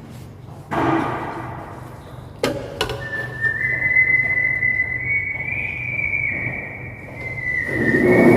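A long, steady high whistle that starts about three seconds in and holds for some five seconds, its pitch stepping slightly up and then back down. It sits over a hissing rush that comes in suddenly near the start and swells again near the end.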